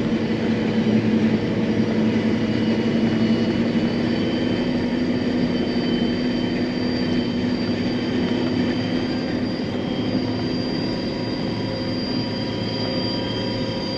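John Deere self-propelled forage harvester running while chopping corn, heard from inside its cab: a steady drone with a low hum and a high whine.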